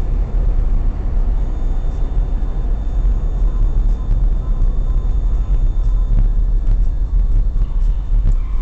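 Steady low rumble of a car on the move: engine and road noise, with no sudden change.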